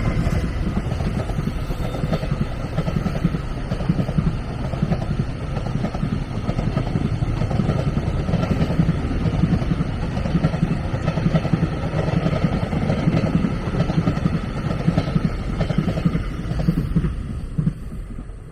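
A train running past on the line, a loud, continuous low rumble of wheels and running gear that fades away near the end.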